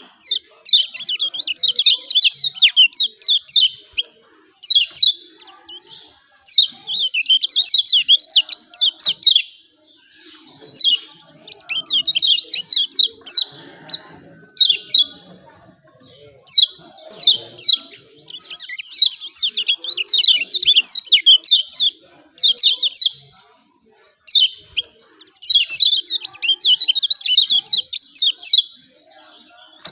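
Kecial kuning (Lombok white-eye) giving fast, excited 'ciak ciak' chattering calls: bouts of rapid, high sweeping notes lasting one to three seconds, broken by short pauses, repeated throughout.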